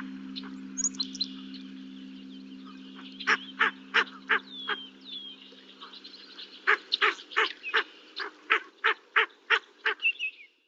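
Birds calling: a run of short, nasal, honk-like calls, several a second, starting about three seconds in, with a few thin chirps among them. A low steady hum fades out under the calls during the first half.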